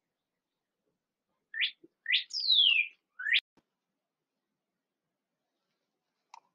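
A bird chirping close by: a quick run of four high calls about a second and a half in, three short rising chirps around one longer falling note. A soft click sounds at the very start.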